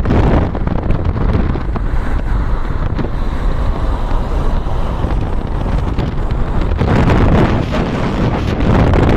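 Strong wind buffeting the microphone, a loud low rumble that swells in a gust a couple of seconds before the end.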